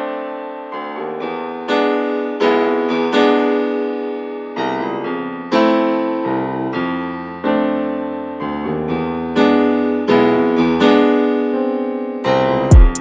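Piano music: chords struck one after another, each ringing out and fading before the next, with a bass line coming in about two-thirds of the way through.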